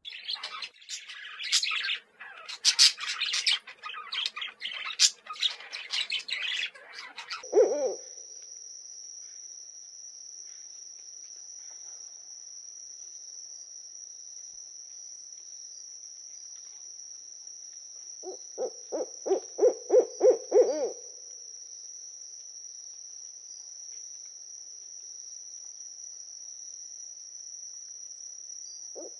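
Small birds chirping busily for the first several seconds. Then a single hoot and a steady high-pitched insect trill set in, and about two-thirds through an owl gives a run of about ten evenly spaced hoots, roughly four a second.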